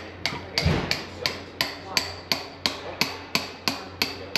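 Hand hammer striking metal in a steady rhythm, about three blows a second, each with a short ring; one heavier thud lands under a blow about half a second in.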